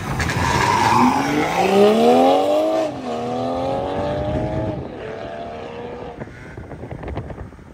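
BMW M340i's turbocharged straight-six launching hard and accelerating away. The engine note rises in pitch, drops at an upshift about three seconds in, climbs again, shifts once more near five seconds, then fades as the car pulls into the distance.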